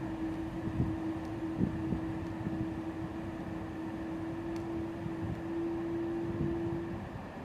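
Steady running noise inside a moving double-decker passenger train coach, with a constant hum that stops about seven seconds in and a few faint clicks.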